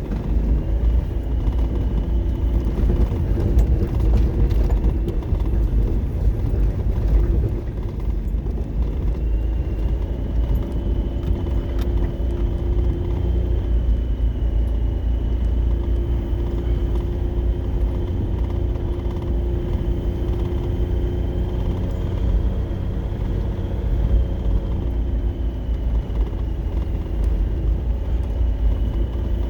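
A motor vehicle driving: a steady low rumble of engine and road noise with a constant engine hum that shifts slightly in pitch.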